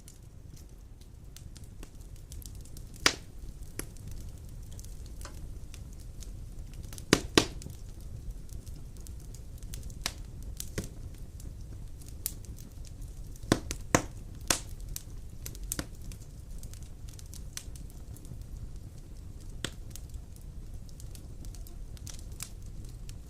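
Wood fire burning in a fireplace: a low steady rumble with scattered sharp crackles and pops, the loudest coming singly about three seconds in, as a pair around seven seconds and as a quick cluster around fourteen seconds.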